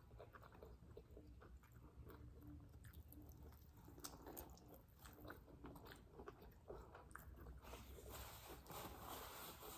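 Faint chewing and biting of food, with scattered small clicks from mouths and food, a little busier near the end.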